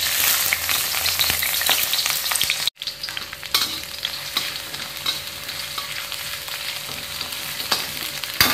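Sliced shallots and garlic sizzling in hot cooking oil in a wok, starting suddenly and loudest as they hit the oil, with the scrape and tap of a spatula stirring them. The sizzle cuts out for an instant about a third of the way through.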